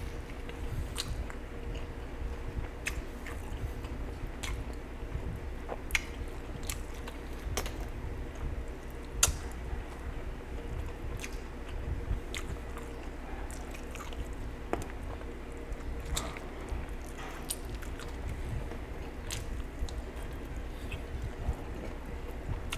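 Close-miked chewing and lip-smacking as roast chicken is eaten by hand, with irregular wet clicks from mouth and fingers, the sharpest about nine seconds in. A faint steady hum runs underneath.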